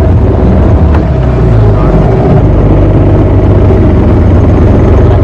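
A boat's motor running steadily under way, a loud, even drone with no change in pace.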